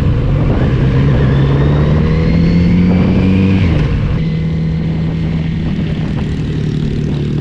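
Motorcycle engine accelerating on the road. Its pitch climbs, falls at a gear change right at the start and again near four seconds in, then holds steady at a constant speed.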